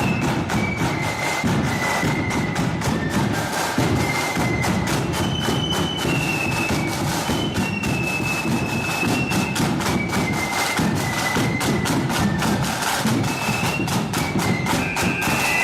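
Blood-and-thunder marching flute band playing a tune: a high flute melody over a dense, rapid beat of snare drums and heavy bass drum thumps.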